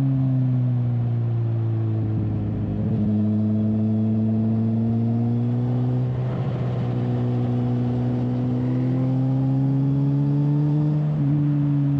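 2007 Suzuki GSX-R 1000's inline-four engine running at moderate revs on a relaxed lap. The pitch eases down, dips about three and six seconds in, then climbs gently again. Wind rumbles on the bike-mounted microphone.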